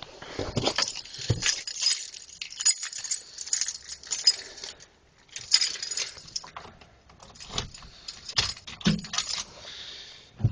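A bunch of keys jangling and clinking in irregular bursts, with scattered light knocks of handling.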